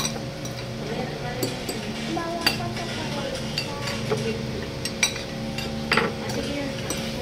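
Cutlery clinking and scraping against dishes during a meal, with a few sharp clinks scattered through, over a steady background hum.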